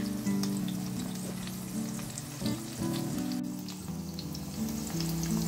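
Zucchini slices frying gently in oil over low heat, a steady soft sizzle with fine crackling pops. Background music plays underneath in held low notes.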